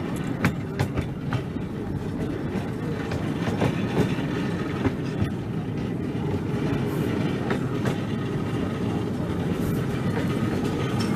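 Open carriage of a 10¼-inch gauge miniature railway running along the track, heard from on board. The wheels keep up a steady rumble, with occasional sharp clicks and knocks.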